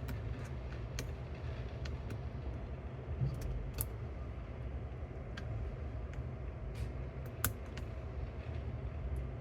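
Small sharp clicks and taps of the cassette deck's tape-transport parts being handled while the idler is fitted back, scattered and irregular, the loudest about seven and a half seconds in, over a steady low hum.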